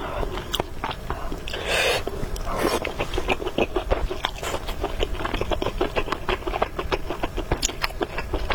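Close-miked chewing of spicy noodles and meatballs: a dense run of wet, smacking mouth clicks. Two short, noisy bursts come about two seconds in.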